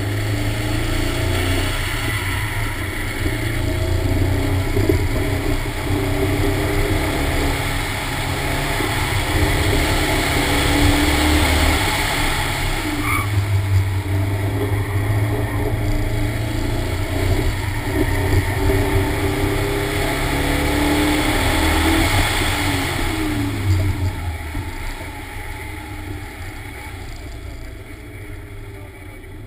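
Toyota AE86 Corolla's 1.8-litre 7A-GE stroker four-cylinder engine revving up and down repeatedly as the car is driven hard through an autocross course, then easing off and getting steadily quieter over the last few seconds as the car slows.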